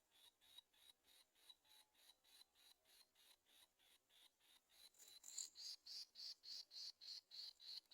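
Faint, rapid, evenly repeated high-pitched begging calls of nestling birds, about four or five a second, getting louder about five seconds in.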